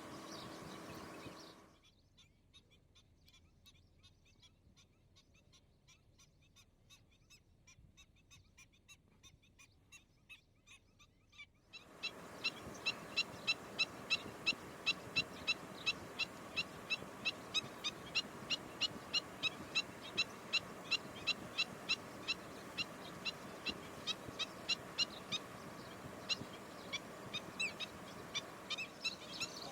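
A bird calling over and over in short, sharp notes, about two a second, growing louder. About twelve seconds in the background hiss jumps up and the calls carry on louder.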